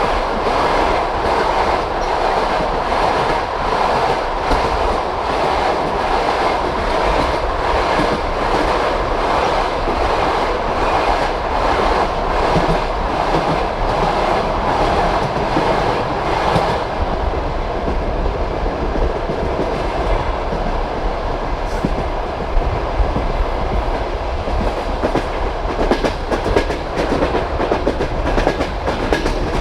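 Passenger train carriage running along the line: the steady rumble of the wheels with their regular clickety-clack over the rail joints. A little over halfway through, the sound turns duller, and the knocks come less evenly near the end.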